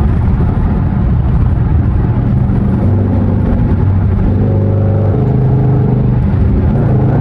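Loud exhaust drone of a Dodge Charger R/T's 5.7 Hemi V8 under acceleration, straight through with the resonator and mid mufflers removed; the engine note steps up in pitch about five seconds in.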